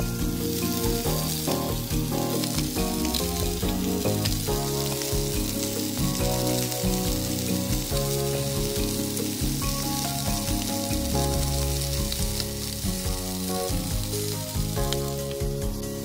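Chicken pieces and sliced Japanese leek sizzling as they fry in a pan, a steady hiss that eases a little near the end. Background music plays underneath.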